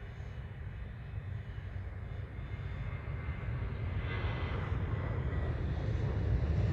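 Airbus A330-200 jet engines at taxi power, a steady low rumble that grows louder as the airliner comes closer, with a faint whine about two-thirds of the way through.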